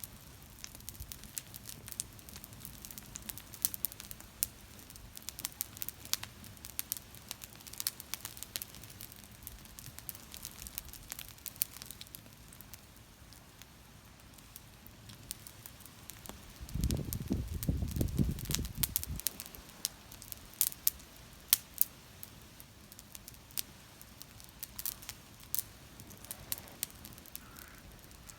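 Wood fire crackling, with irregular sharp pops and snaps over a faint hiss. About two thirds of the way in, a low rumble lasts for about two seconds.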